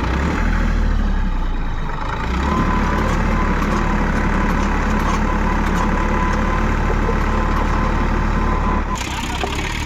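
New Holland tractor's diesel engine running steadily with a deep rumble; the sound changes abruptly about nine seconds in.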